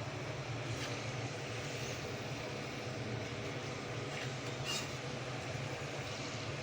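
Potato chips deep-frying in hot oil, a steady sizzle over a constant low hum, with a couple of faint ticks.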